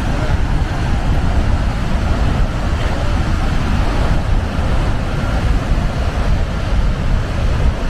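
Steady, loud rushing roar of the water going over Niagara Falls, heaviest in the low end.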